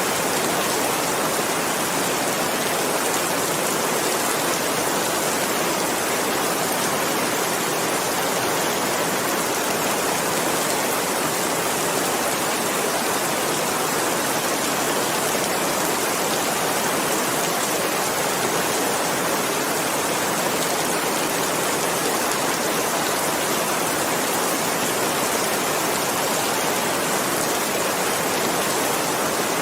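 Steady heavy rain, an even continuous hiss with no distinct drops or changes.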